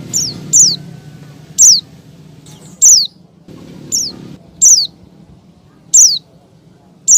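Female white-eye (pleci) calling: short, high, down-slurred chirps repeated about once a second, eight in all, over a low steady hum. This is the female's call to draw a male.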